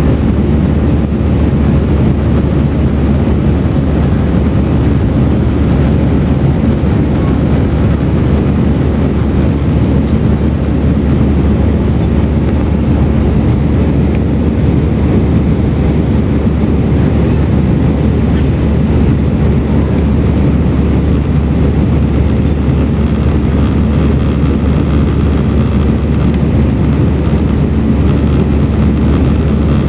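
Airbus A319 jet airliner's engines and airflow heard inside the passenger cabin: a steady, deep rumble with an even hiss above it, unchanging throughout.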